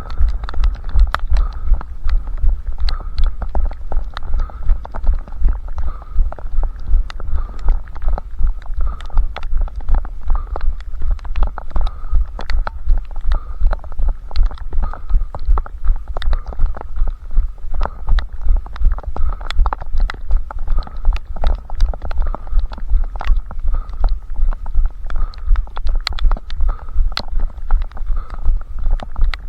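Running footsteps picked up through a head-mounted camera: a steady rhythm of low thumps, about three a second, with sharp ticks of the shoes striking the pavement.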